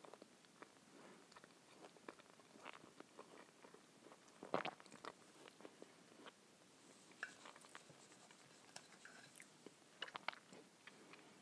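Quiet chewing and small mouth sounds of someone eating an open sandwich of bread with mackerel in tomato sauce, with scattered light clicks of a knife and fork against a plate. The sharpest click is about four and a half seconds in, and a few more come near the end.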